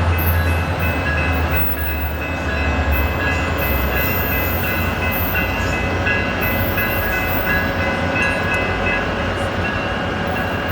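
Diesel passenger train at a station platform: a low engine rumble easing off over the first few seconds, under a steady high whine from the train's equipment.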